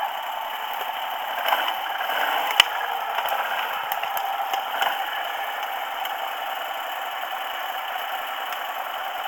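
Quad bike (ATV) running steadily over a rough forest track, its engine drone overlaid with rattles and scraping, with one sharp knock about two and a half seconds in.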